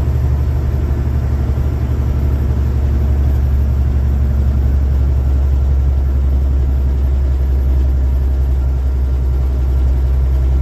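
Steady low drone of a vehicle's engine and road noise heard inside the cab while driving.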